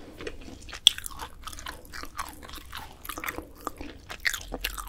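Close-miked chewing of grilled dried filefish fillet (jwipo): a run of small, dry crunches and clicks, with one sharper click about a second in.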